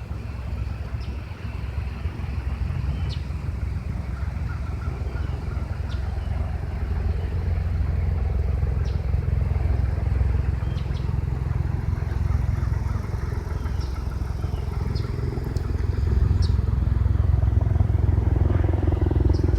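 Aircraft engine noise overhead: a low, steady rumble that slowly grows louder, with a few faint, short high chirps over it.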